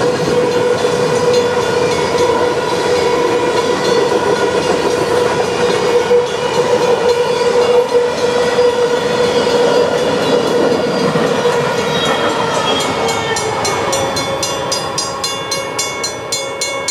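Freight train of covered hopper cars rolling past a level crossing: steady rumble and wheel noise with a steady ringing tone. The train sound fades toward the end, where a quick regular ringing of about three strokes a second comes through.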